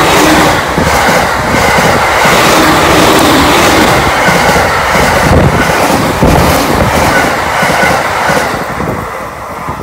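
JR East E231 series suburban electric train passing close by at speed: a loud steady rumble of wheels on rail with repeated knocks, fading as the last cars go by near the end.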